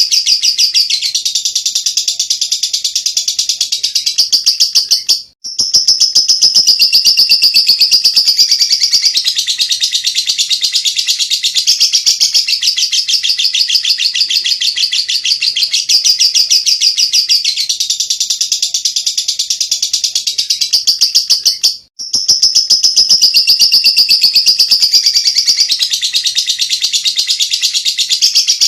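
Lovebird 'ngekek': a long, unbroken run of rapid, high-pitched chattering notes. It stops briefly twice, about five seconds in and again about twenty-two seconds in.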